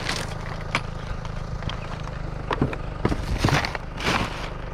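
Items being handled in a rubbish pile: scattered knocks and rustles, busiest from about two and a half seconds in, over a steady low hum.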